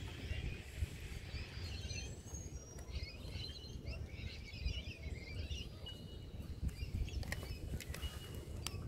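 Small birds chirping and twittering over a steady low outdoor rumble, with a few sharp clicks near the end.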